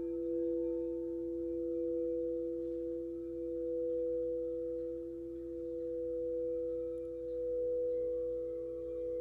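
Quartz crystal singing bowls ringing: two sustained pure tones, one low and one higher, swelling and fading slowly in level. A third tone, a little below the higher one, joins near the end.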